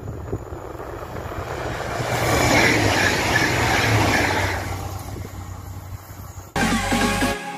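AGC regional train passing at speed close by: the rush of wheels and air builds, peaks for a couple of seconds, then fades away. Music cuts in near the end.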